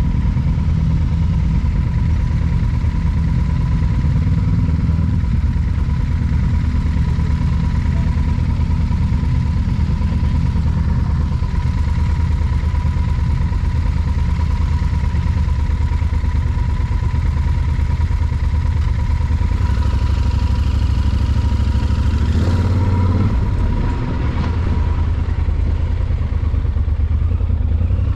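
Motorcycle under way at a steady pace: a constant low rumble with a thin steady whine over it, easing briefly near the end.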